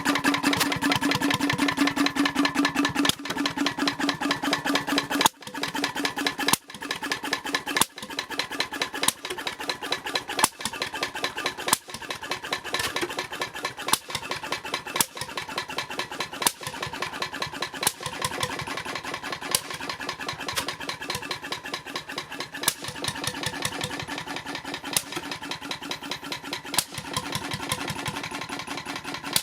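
H V McKay Sunshine 10 hp type C portable engine running: a fast, even mechanical beat with a sharper stroke standing out about every second and a half.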